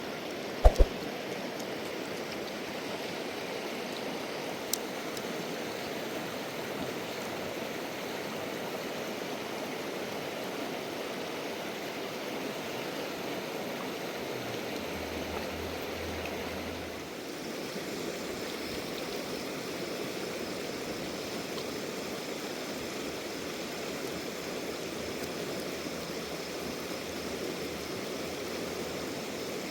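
A river flowing: steady rushing water, with a sharp click about a second in.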